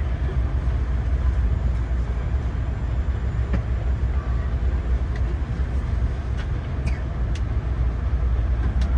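Steady low rumble and hum inside a 300R automated people-mover car standing in the station before departure, with a few faint clicks.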